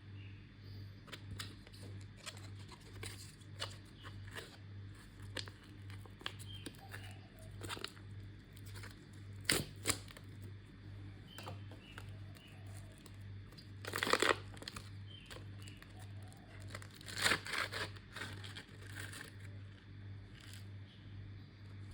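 Plastic ration packaging being handled, crinkling with scattered small clicks and three louder rustles, the longest about two-thirds of the way through. A steady low hum runs underneath.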